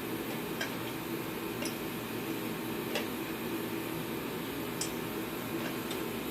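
About five light, sharp clicks spaced irregularly over a steady whooshing hum.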